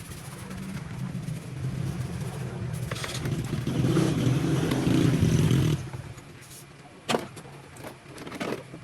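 A motor running with a steady low drone that grows louder, then cuts off abruptly, followed by a couple of sharp knocks.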